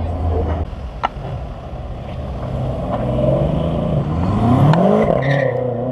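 A car engine revving as a car pulls away, its pitch climbing through the second half. There is a single sharp click about a second in.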